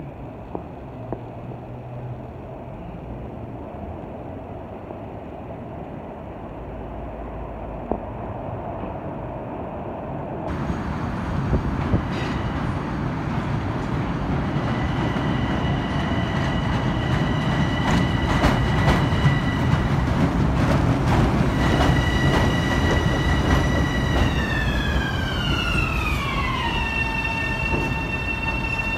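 LIRR electric multiple-unit train approaching and slowing into the station. Wheel and rail noise builds from about a third of the way in, with a few sharp clacks, and a steady high whine that glides down in pitch near the end as the train brakes.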